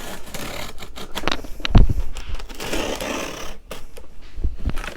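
Cutter slicing through the packing tape on a cardboard box, a run of quick scraping rasps and clicks, with a heavy thump about two seconds in as the box is handled.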